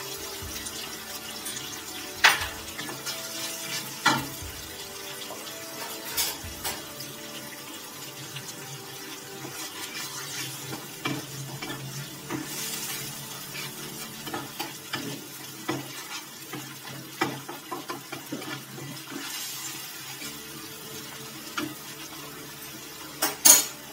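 Thick onion-tomato masala paste frying in a pan, sizzling softly while a wooden spatula stirs and scrapes it, with a few sharp knocks of the spatula against the pan.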